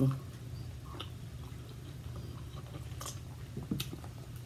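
Faint eating sounds at a table: soft chewing and mouth clicks, a few short clicks spread through the stretch, over a steady low hum.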